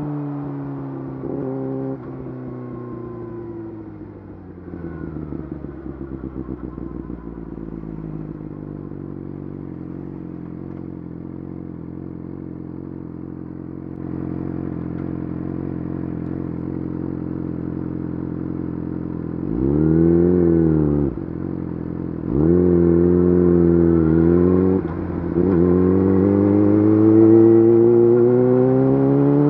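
Yamaha YZF-R6 inline-four engine through an Akrapovič full exhaust system, under way: the revs fall and settle low for a while, rise and drop again in a quick swell about two-thirds in, then climb steadily as the bike accelerates near the end.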